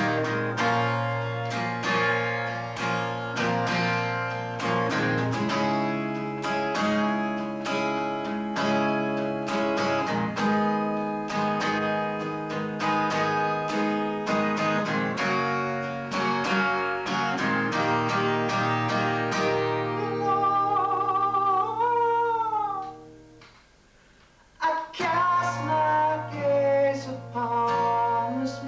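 Acoustic guitar playing a song, heard through a basic VHS camcorder microphone. Near the end a long wavering note glides down, the music stops for about a second, and then the playing starts again.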